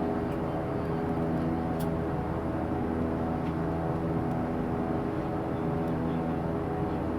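Airliner cabin noise in flight: a steady drone of engines and airflow with several held hum tones, and a faint click about two seconds in.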